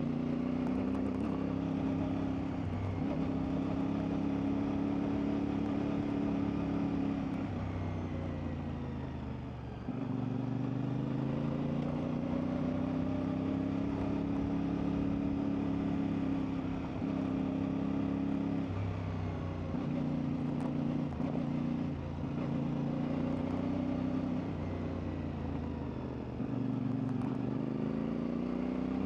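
CFMoto 450MT's parallel-twin engine running under way off-road. The revs fall and climb several times, dropping away about nine seconds in before pulling up again, and rising once more near the end.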